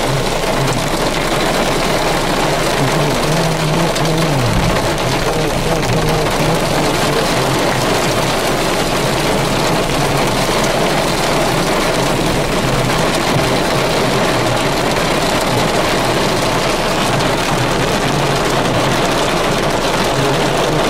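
Heavy rain pouring steadily, with a low hum underneath that drops in pitch about four and a half seconds in.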